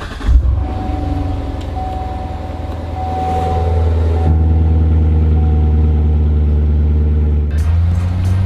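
Chevrolet C7 Corvette's V8 engine running at a steady idle after a sharp flare of revs just at the start.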